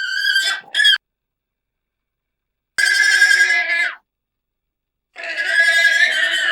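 Three high-pitched animal calls, each about a second long, separated by silence.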